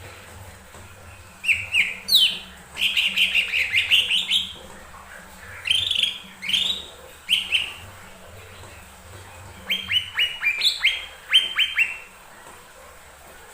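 Cucak ijo mini, a small leafbird, singing in three bouts of quick, clear chirping notes. The last bout is a rapid run of sharp, falling notes.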